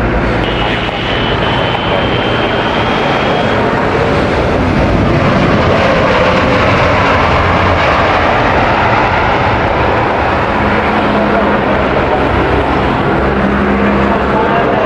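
Jet engines of a landing Boeing 787-8 Dreamliner airliner, a loud steady rush of jet noise that grows a little louder about four seconds in and then holds.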